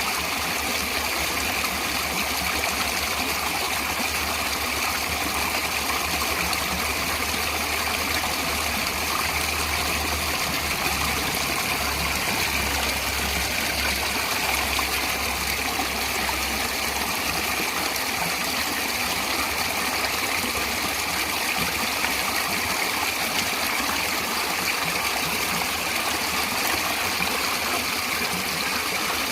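Natural running water, a steady, unbroken rush like a flowing stream, with a faint low rumble underneath that fades out a little past halfway.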